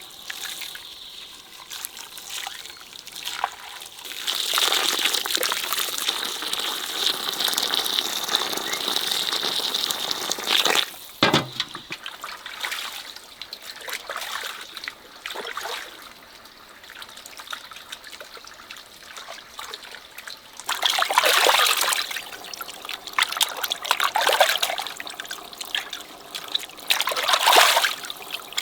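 Water pouring and trickling for several seconds, with a single short knock about eleven seconds in, then a few separate splashes of water near the end.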